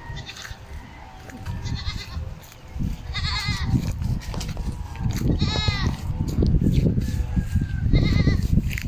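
Farm animal bleating: three short wavering calls, about three, five and a half, and eight seconds in, over a loud low rumbling noise.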